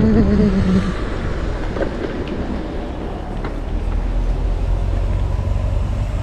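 A vehicle's low rumble running steadily, growing stronger over the last couple of seconds. A drawn-out, falling, whining voice fades out in the first second.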